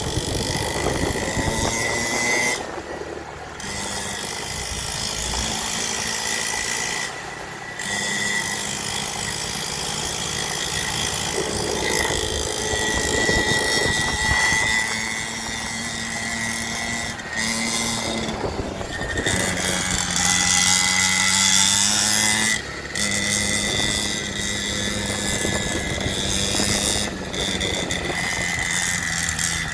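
Small dirt bike engine running under throttle, holding a steady buzzing pitch that steps up and down. The pitch and level briefly drop several times, as the throttle is let off and opened again.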